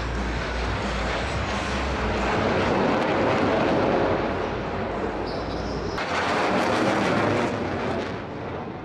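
Jet aircraft of the Black Eagles team, KAI T-50B trainers, flying past with a loud rushing engine noise that swells and fades, then cuts sharply to a second pass about six seconds in.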